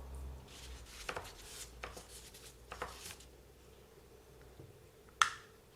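Light clicks and taps of small plastic and metal RC car suspension parts being handled and fitted back together, with one sharp click about five seconds in.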